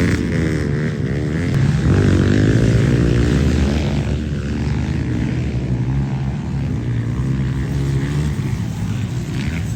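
Pit bike engine running on a motocross track, its pitch rising and falling as the throttle is worked in the first couple of seconds, then holding fairly steady.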